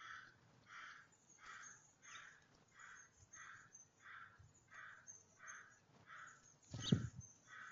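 A crow cawing over and over, one short harsh call about every three-quarters of a second, with a single loud thump near the end.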